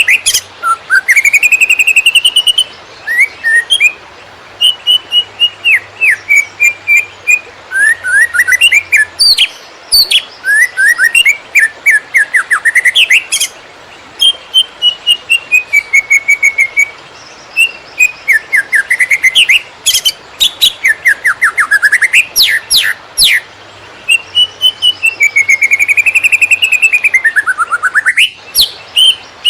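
Cucak ijo (green leafbird) singing without a break in the rapid 'konslet' style: a fast, ever-changing stream of sharp chirps, rising and falling whistles and quick trills.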